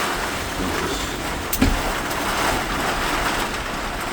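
Heavy downpour driven by squall wind: a steady rushing noise of rain and gusts, with one sharp knock about one and a half seconds in.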